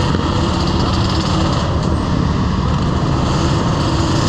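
Motorcycle engine running steadily on the move, under a constant rush of wind and road noise.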